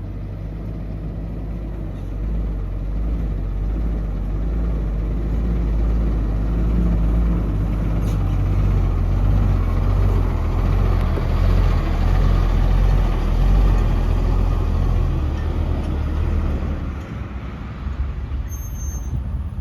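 Heavy diesel engine of earthmoving machinery running under load, growing louder toward the middle and easing off near the end.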